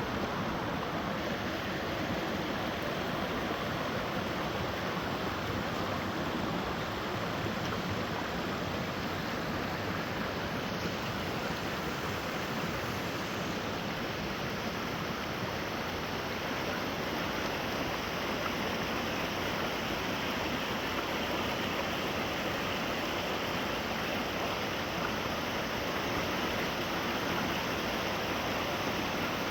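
Water in a stream rushing steadily: a constant, even hiss that doesn't break or change.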